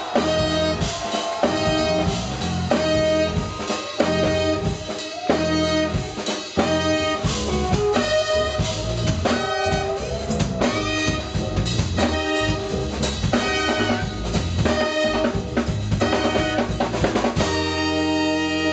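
Live jazz-funk band playing: drum kit hitting a driving rhythm under brass and keyboards. About seventeen seconds in, the drums stop and the band holds a sustained chord.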